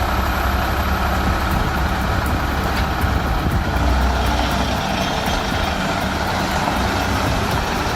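Heavy-haul truck engine running under load: a loud, steady rumble mixed with mechanical noise, which begins abruptly.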